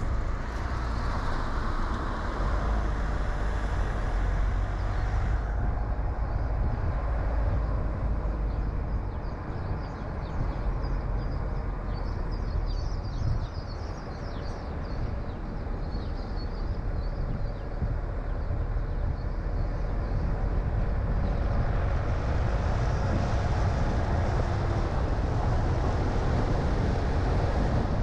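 Car driving along a road: a steady low rumble of engine and tyre noise with road noise over it.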